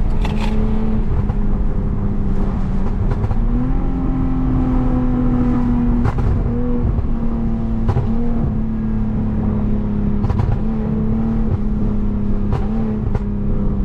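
Tuned Lexus IS250's 2.5-litre V6 engine and exhaust running under way, its note steady with a small rise in pitch about three and a half seconds in. Sharp exhaust pops crack out now and then from the ECU tune.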